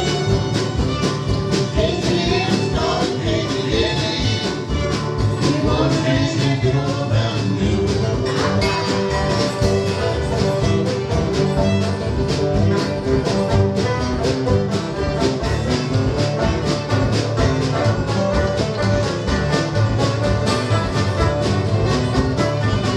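Acoustic bluegrass band playing a tune, string instruments over a steady, even strummed beat.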